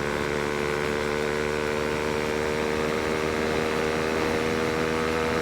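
Bajaj Pulsar NS200's single-cylinder engine running steadily through an aftermarket SC Project exhaust, its pitch holding flat.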